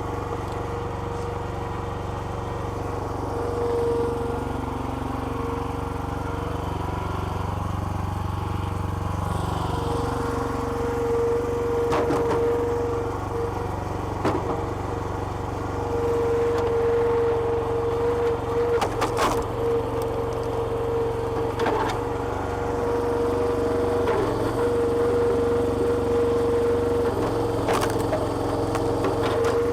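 Small petrol engine running a homemade hydraulic log splitter, with a steady whine that comes and goes as the hydraulics work, and several sharp cracks of wood splitting.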